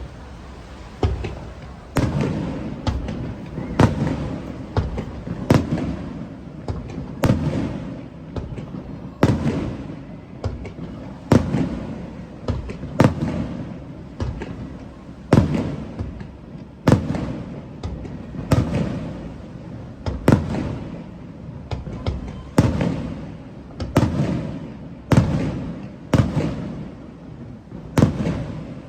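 Aerial fireworks shells bursting in quick succession, a sharp bang about once a second, each followed by a low rumbling echo.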